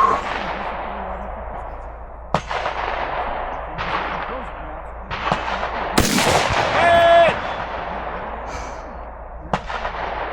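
Six gunshots at uneven spacing, each followed by a long fading echo. About seven seconds in, a short metallic ring of a steel target being hit comes back just under a second after a shot.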